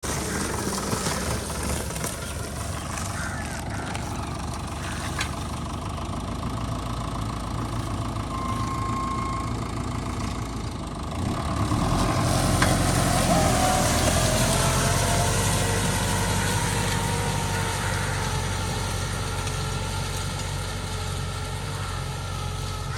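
Tractor engine running steadily, growing louder about halfway through.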